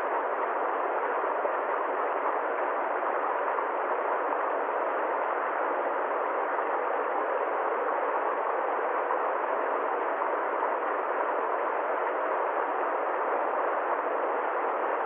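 Steady, even rushing noise with no low rumble and no high hiss, unchanging in level throughout.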